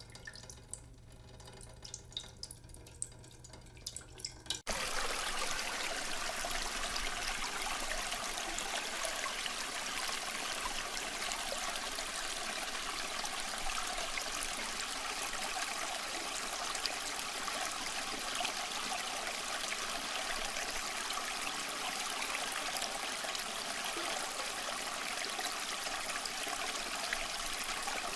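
Water drips falling one by one, then about four and a half seconds in an abrupt switch to a steady rush of running water that carries on unchanged.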